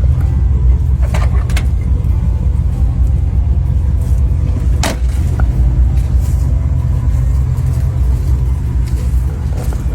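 Chevrolet 1500 pickup's V8 engine running steadily through a MagnaFlow catback exhaust, a deep steady rumble. A few sharp clicks come about one second and five seconds in.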